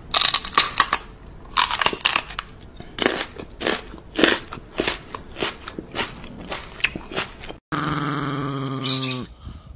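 Irregular crunching, munching mouth sounds as a person pretends to chew on a puppy's paw. Near the end, a small dog gives a drawn-out growling vocalization that drops in pitch as it ends.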